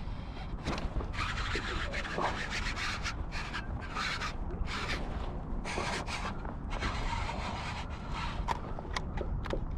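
Irregular rubbing and scraping sounds in short bursts, over a steady low rumble.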